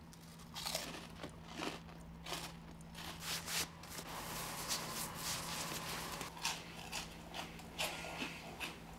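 Close crunching and chewing of orange cheese-puff snacks, in irregular bites, over a faint steady low hum.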